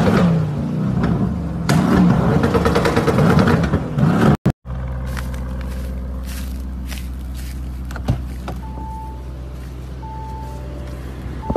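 Lamborghini Urus twin-turbo V8 revving, its pitch rising and falling, for the first four seconds; after a sudden cut the engine settles into a steady, quieter idle drone, with a few short electronic beeps in the second half.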